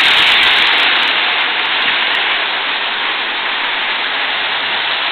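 Steady rolling noise of model electric trains running on the layout's track, easing a little about a second in.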